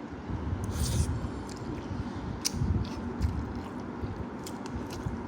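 A person eating kimchi noodles, chewing close to the microphone, with a few short wet clicks and a brief hiss a little under a second in.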